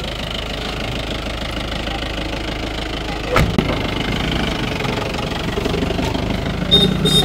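SUV engine idling steadily. A door thuds shut about three and a half seconds in, and a few short high chirps sound near the end.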